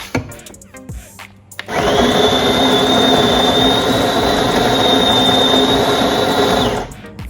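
A few clicks, then the De'Longhi Magnifica S espresso machine's built-in conical burr grinder grinding coffee beans for about five seconds: a steady mechanical grinding with a high whine, cutting off near the end.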